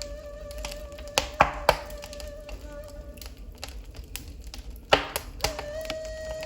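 Wood fire in a fireplace crackling, with several sharp pops about a second in and again near five seconds. Under it, a ney (reed flute) holds one long note, breaks off past the middle, and comes back on a slightly higher note.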